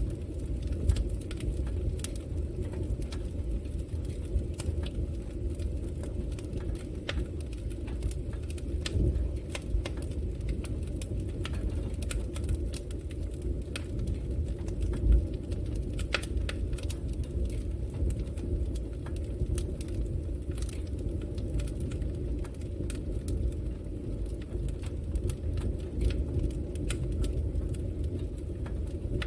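Fire burning in a fireplace: a steady low rumble with frequent sharp crackles and pops.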